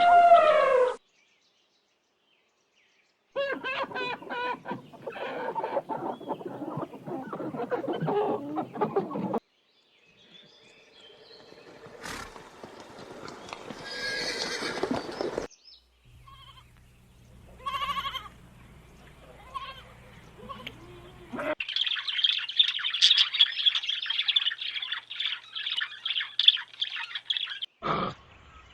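A string of different animal calls, each clip cut off abruptly before the next begins. Near the end comes a stretch of dense, high chirping.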